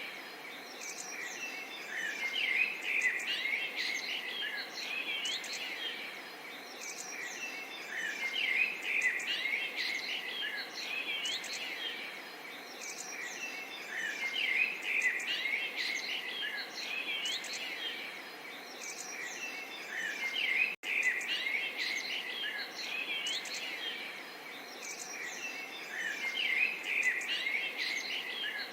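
Small songbirds chirping and twittering over a soft, steady babble of water. The bird chatter swells and fades every few seconds, and the sound cuts out for an instant about two-thirds of the way through.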